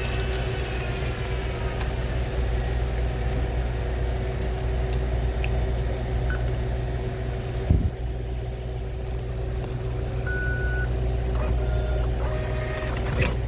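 Steady low mechanical hum with a few fixed tones, a single thump about eight seconds in, and a few short electronic beeps about ten seconds in.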